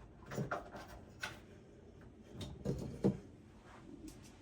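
Hands working on a desktop PC case: about five short knocks and clunks of parts and screws being handled, the loudest about three seconds in.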